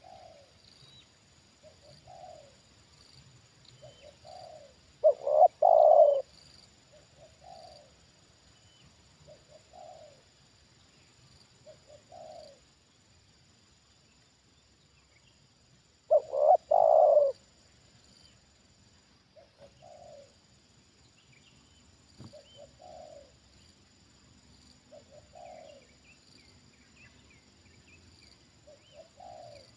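Spotted doves cooing: a loud, close cooing phrase twice, about 5 seconds and 16 seconds in, with fainter single coos from another dove every couple of seconds in between. Faint high chirps from smaller birds show up in the later part.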